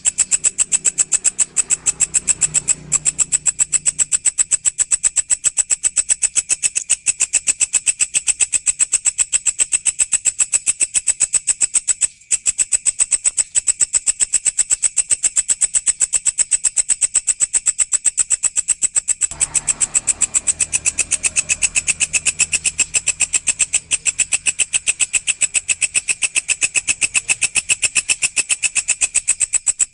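Walang, a singing grasshopper-type insect, calling in a fast, even train of high chirps with a brief break near the middle. A low hum sits underneath at the start and again in the second half.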